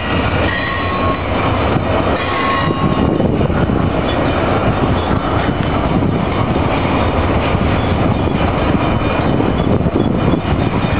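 BNSF double-stack intermodal freight train rolling past, a loud, steady rumble of wheels on rail. A few faint, thin high squeals from the wheels come in the first few seconds.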